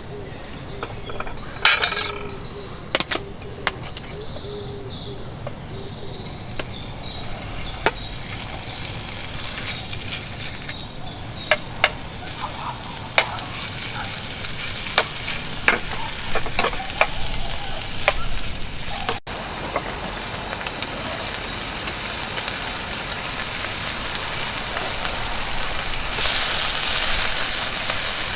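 Wood fire crackling and hissing, with sharp pops scattered irregularly through it.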